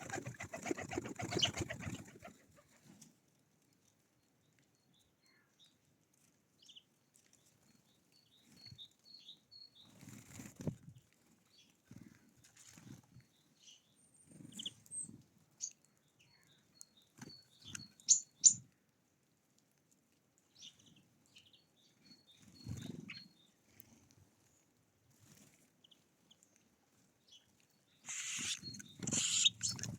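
Birds' wings flapping at a feeder, in a loud flurry at the start and again near the end. Between them come short high chirps and scattered small knocks.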